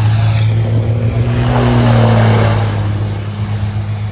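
Racing trucks' turbocharged diesel engines running hard on the circuit, a steady low drone with a truck sweeping past about halfway through; the noise eases slightly near the end.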